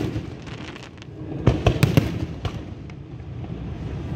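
Fireworks going off: a sharp bang at the start, then a quick run of four or five cracks about one and a half to two and a half seconds in.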